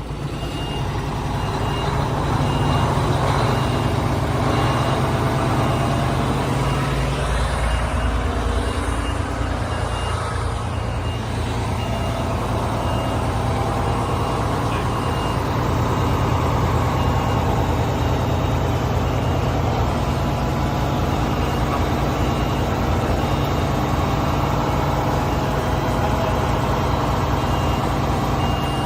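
Truck diesel engine running, its speed shifting for a few seconds near the middle, with a high electronic beep repeating steadily over it.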